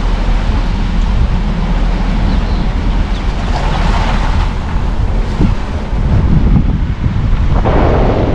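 A car driving along a road: a steady low rumble of engine and tyres with wind noise, swelling twice into a louder hiss, once around the middle and again near the end.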